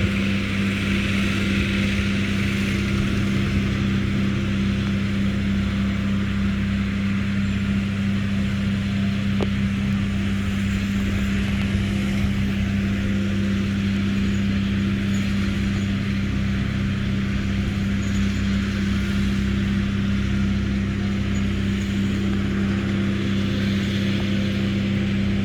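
An engine running steadily at constant speed, a steady drone with no change in pitch or level.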